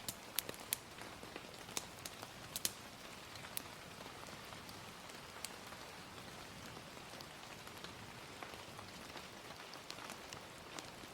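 Gentle rain as a steady soft hiss, with sharp pops of a crackling fire, several in the first few seconds and fewer after.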